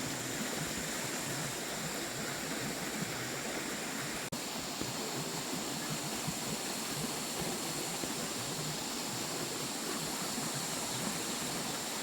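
Steady rushing of running water, broken off for a moment about four seconds in.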